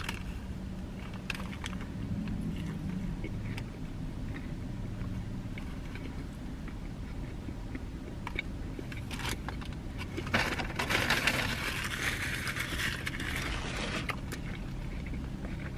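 A person biting into and chewing a crispy chicken taco, with small crunches and mouth clicks over a steady low hum. About ten seconds in there are a few seconds of louder rustling.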